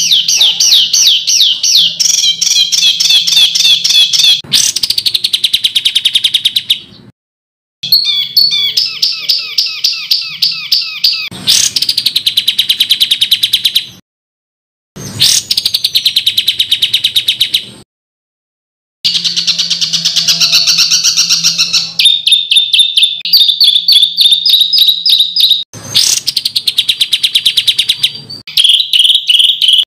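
Songbird song made of fast trains of sharp, rapidly repeated notes, loud and harsh: the 'tembakan' rapid-fire phrases used as masteran to teach competition songbirds. The recording is spliced, with three short dead-silent gaps where one clip cuts to the next.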